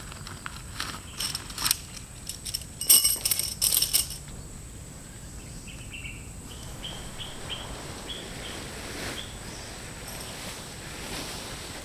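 A flurry of sharp metallic clinks and clatter in the first four seconds, typical of camping gear being handled while a shelter is pitched. Then a bird calls a run of about seven short, evenly spaced notes.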